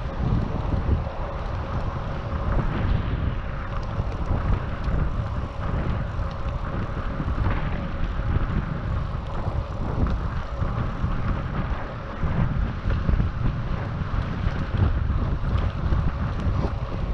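Wind buffeting the microphone of a GoPro on a moving bicycle: a steady low rumble.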